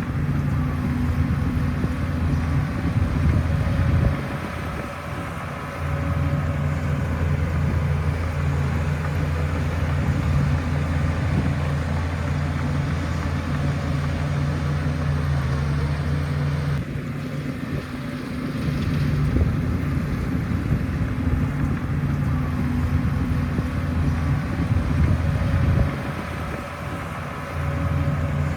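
Shantui bulldozer's diesel engine running steadily, its low drone briefly dropping off three times before picking up again.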